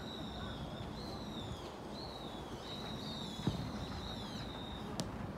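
A bird calling over and over in high, drawn-out, slightly falling notes, over a steady low rumble. A dull thump comes about three and a half seconds in, and a sharp click near the end.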